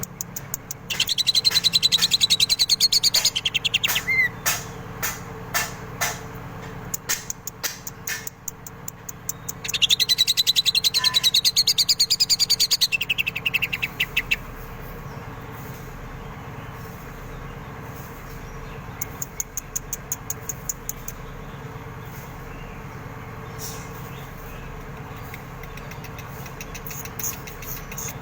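A green leafbird (cucak ijo) singing, with two loud bursts of fast repeated high notes imitating a kingfisher's (tengkek) call, one about a second in and one about ten seconds in. Scattered sharp chips follow, over a low steady hum.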